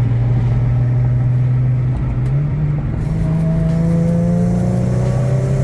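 Infiniti G37's V6 engine and exhaust running under way. The engine note steps up a little over two seconds in and then climbs slowly as the revs build.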